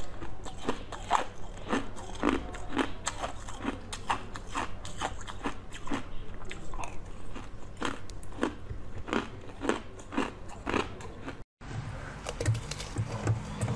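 Close-miked biting and crunching of frozen jelly chunks, sharp icy cracks about twice a second. The sound drops out briefly near the end.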